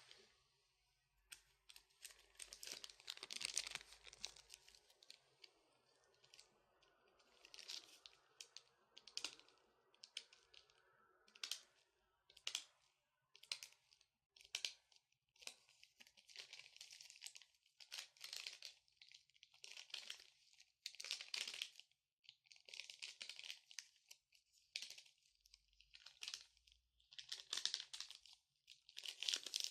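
Long natural fingernails tapping and scratching quietly: quick runs of clicks and scrapes in spells of a second or two, with short pauses between.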